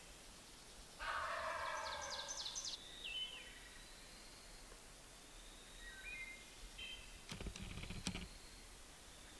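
Wild turkey gobbler gobbling once about a second in, a rattling call lasting about two seconds: a tom fired up and coming toward the hunters. Small songbirds chirp short high notes afterwards.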